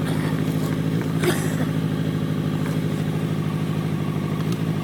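Motorcycle engine idling steadily, with a short sharp click about a second in.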